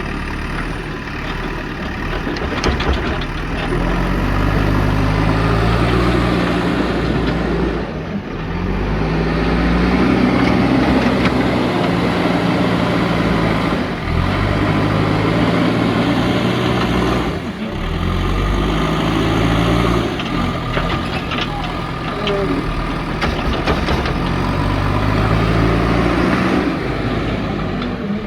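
Diesel engine of a JCB backhoe loader working under load, its engine speed stepping up and down over and over as the hydraulics work.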